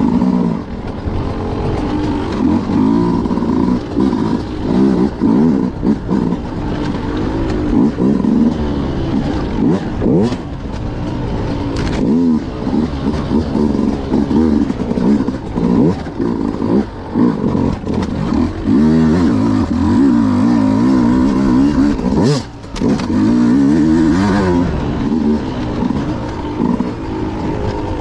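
Beta RR 200 two-stroke enduro motorcycle engine, heard on board, revving up and down constantly as the throttle is worked over rough ground. The engine briefly drops off about three-quarters of the way through, and a few sharp knocks are heard.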